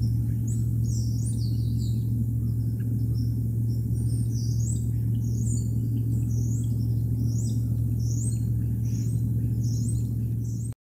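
Small birds chirping in quick, high, short notes, more often in the second half, over a steady low hum.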